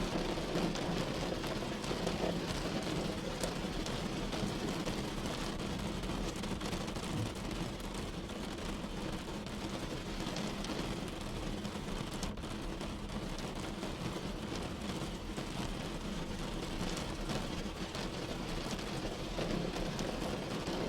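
Steady rain falling on a car, heard from inside, thick with individual drop ticks over a low, even vehicle rumble.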